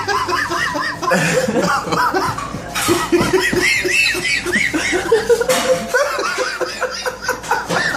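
Several people laughing hard in repeated bursts, with a cough or two in the middle.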